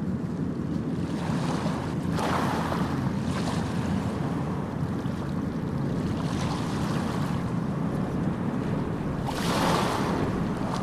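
Sea waves on a shore: a steady low rumble of surf with three waves rushing in and hissing as they break, the last one loudest near the end.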